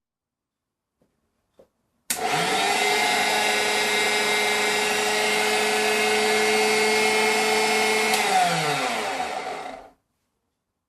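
Zelmer electric meat grinder motor switched on, running at a steady pitch with a whine, then switched off and winding down, its pitch falling until it stops.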